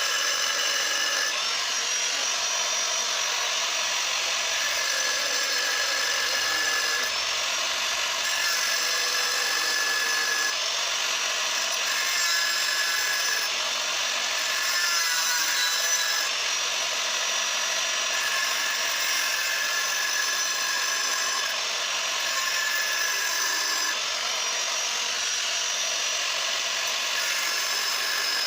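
Angle grinder cutting through the steel of a Rusi Classic 250's stock exhaust silencer: a steady high whine over a grinding hiss, the pitch dipping briefly every few seconds as the disc bites into the metal.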